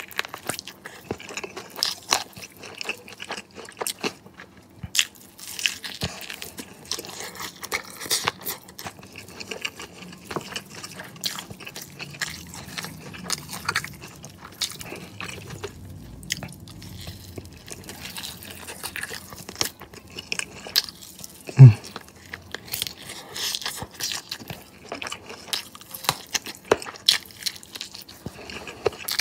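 Close-miked biting and chewing of crispy fried chicken wings, with many small sharp crunches throughout. One louder low thud comes about three-quarters of the way through.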